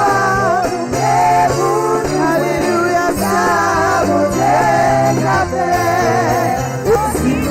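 Congregational gospel worship music: voices singing over a band with a steady bass line and light hand percussion.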